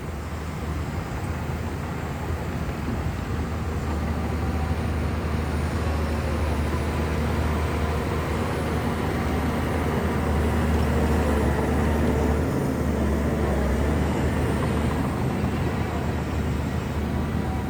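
Shantui bulldozer's diesel engine running steadily under load while the machine pushes soil, with a strong low engine note that grows louder toward the middle and eases off near the end.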